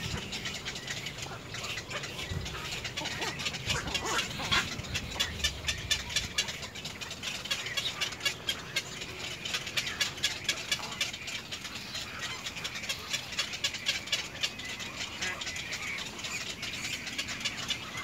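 Birds chattering in rapid dry clicks, several a second, swelling in bursts through the middle, over a low rumble in the first few seconds.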